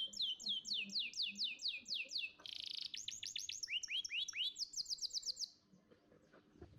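Canary singing: fast trills of repeated downward-sweeping high notes, about eight a second, broken by a short buzzy phrase, with the song stopping shortly before the end.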